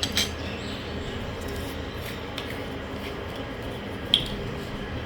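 A few light clicks and taps from handling spoons and ingredient containers while mixing dough ingredients, over a steady low background hum. The sharpest click comes about four seconds in.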